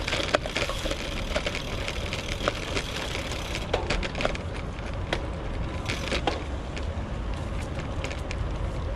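Bicycle ridden along a rough unpaved path: tyres crunching and crackling over the surface, with frequent sharp clicks and rattles from the bike over a steady low rumble.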